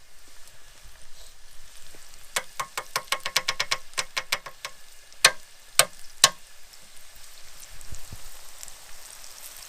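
Battered rockfish fillets frying in hot oil: a steady sizzle, with a quick run of sharp crackles a couple of seconds in, then three loud pops about half a second apart.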